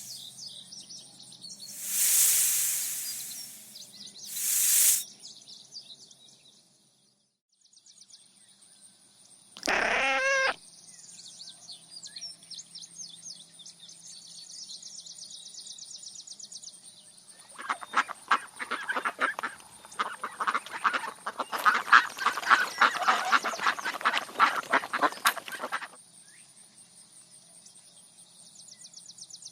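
Animal calls over a high, steady chirring of insects: two loud rushes of noise near the start, a single short call about ten seconds in, then a long run of rapid, chattering calls lasting about eight seconds.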